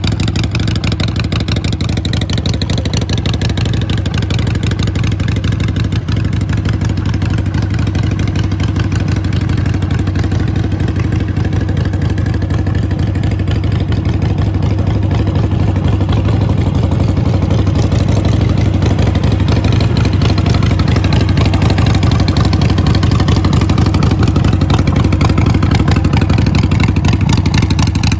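Harley-Davidson Sportster 883's 883cc V-twin running steadily through Vance & Hines Short Shot exhaust pipes. It gets a little louder about halfway through.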